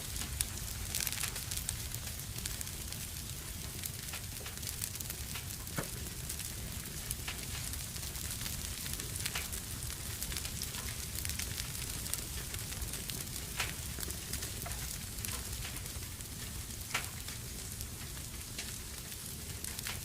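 Wood fire burning in a fireplace: steady crackling over a low rumble, with occasional sharper pops every few seconds.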